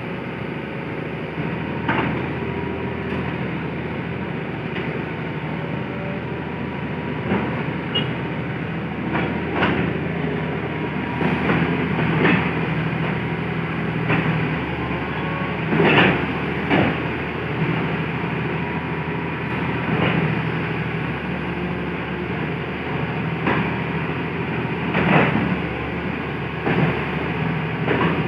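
Hitachi excavator's diesel engine running steadily under work, with sharp knocks and clanks every few seconds.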